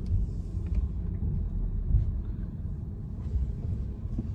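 Low, steady rumble of a car running, with faint hiss above it.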